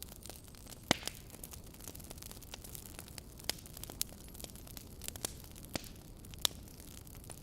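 Wood fire burning in a fireplace: a steady low hiss and rumble with irregular sharp crackles and pops, the loudest about a second in and several more later.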